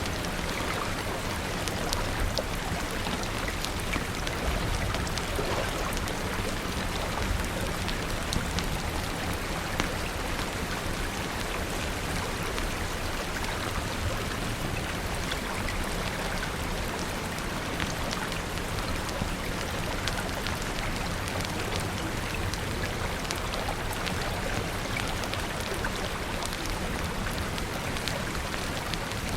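Steady rain with a rushing river underneath, dotted with scattered sharp crackles from a wood fire.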